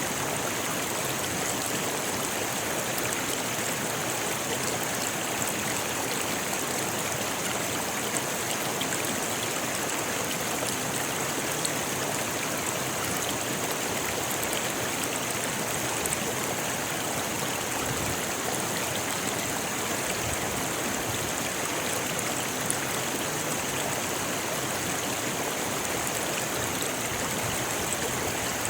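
Rocky river flowing over stones: a steady, even rush of water.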